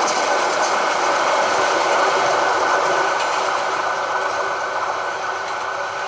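Meter-gauge passenger train's coaches running away along the track, the wheels on the rails giving a steady rolling noise that slowly fades as the train recedes.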